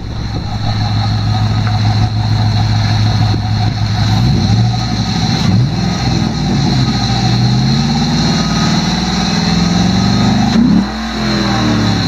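Cadillac CTS-V's 5.7-litre LS6 V8, fitted with a Volant cold air intake, idling steadily, then revved repeatedly from about four seconds in. The highest rev comes near the end, then the engine drops back to idle.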